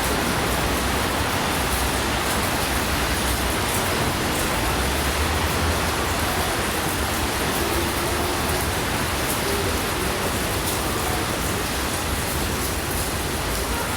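Steady rain falling, an even hiss with faint drop ticks and a low rumble underneath.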